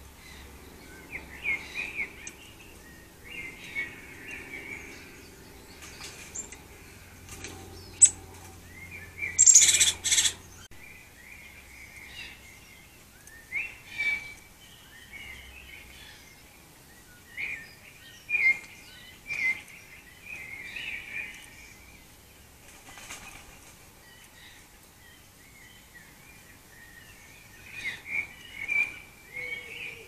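Small garden birds chirping and calling in short bursts again and again, with a loud, brief rustle about ten seconds in.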